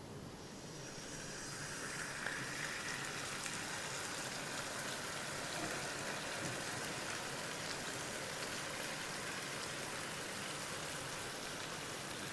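Yogurt-marinated chicken and onions frying in hot ghee in a pan: a steady sizzle that builds over the first couple of seconds and then holds.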